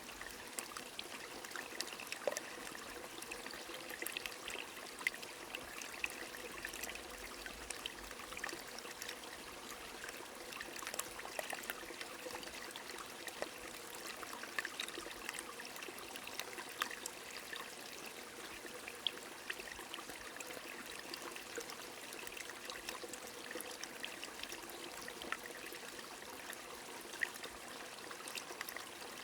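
Steady rain with a flowing stream: an even wash of running water sprinkled with many small, scattered drop ticks.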